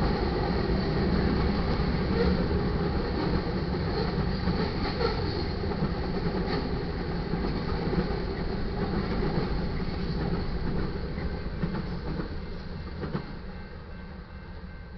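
Freight cars of a mixed manifest train rolling past on the rails: a steady rumble with occasional short clanks, falling away near the end as the last car clears.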